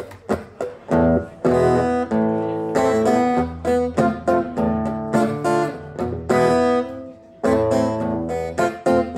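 Acoustic guitar played solo: a few single plucked notes, then strummed chords from about a second in. This is the instrumental intro of a song before the singing starts.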